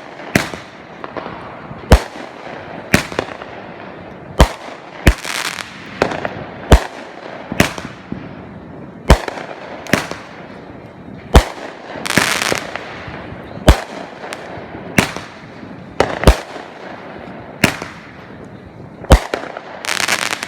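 Consumer aerial fireworks going off in a rapid series, a sharp bang about once a second, with crackling trails after several. A denser burst of crackle comes near the middle and again at the end.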